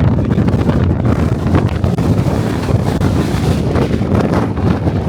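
Strong wind buffeting the microphone of a DJI Osmo Pocket 3: a loud, continuous rumble that swells and dips with the gusts.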